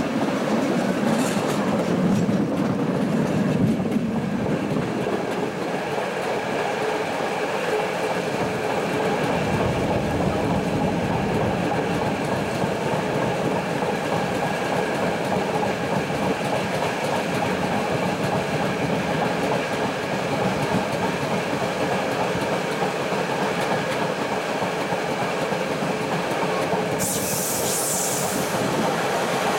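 Train running along the track, a steady rumble with the clickety-clack of the wheels. A brief high hiss comes near the end.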